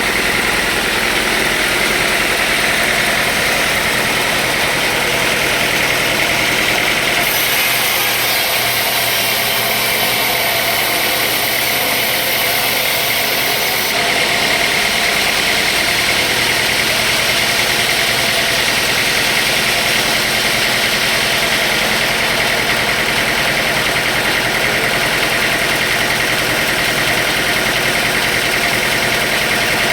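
Sawmill machinery running steadily with an engine note, loud and even throughout; the high hiss brightens for several seconds about a quarter of the way in.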